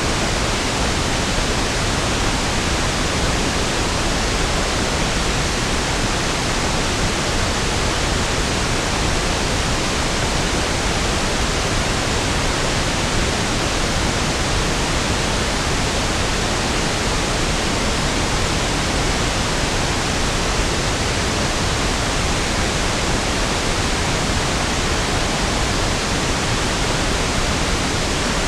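Steady pink noise (1/f noise): an even, unchanging hiss spread across all pitches, softer in the highs than white noise.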